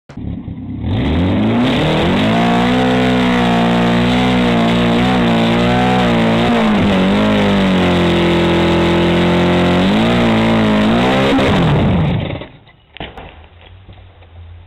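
Car engine revving hard. Its pitch climbs in the first second or two, holds high with small rises and dips for about ten seconds, then falls and cuts off about twelve seconds in.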